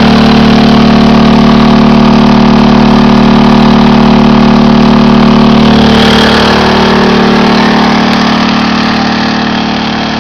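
Champion 73531i 2000-watt inverter generator's small four-stroke engine running steadily under near-full load from a 1500-watt heater and a fan. The note shifts slightly about six seconds in, and the sound grows gradually quieter toward the end.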